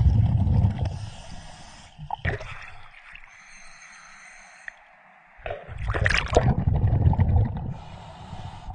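Scuba diver breathing through a regulator underwater: a loud bubbling rush of exhaled air at the start and again about five and a half seconds in, with a quieter hiss between the two.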